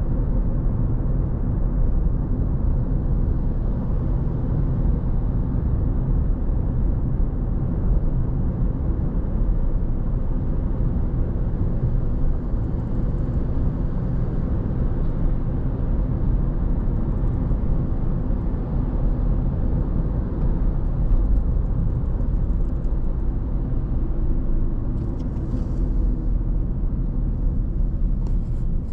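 Car driving at a steady speed: a continuous low rumble of tyres and engine, with a few faint ticks near the end.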